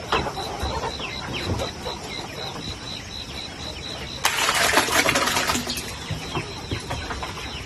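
Chickens clucking, with a steady high cheeping pulse about three times a second. A loud rush of noise breaks in about halfway and lasts about a second and a half.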